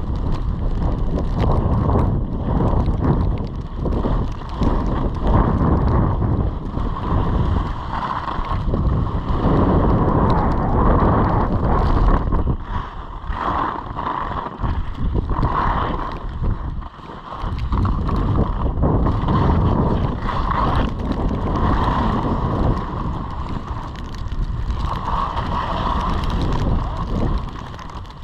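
Wind buffeting the microphone during a downhill ski run, with the scraping hiss of skis on snow, rising and falling through the turns.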